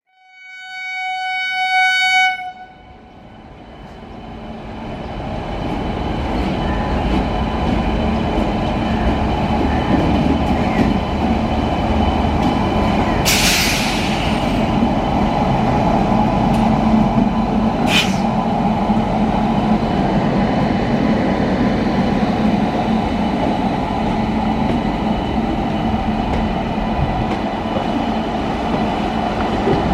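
WAP7 electric locomotive horn sounds one steady blast of about two seconds. The rumble of the moving train then builds over a few seconds and holds steady, with a brief hissing burst near the middle and a sharp click a few seconds after it.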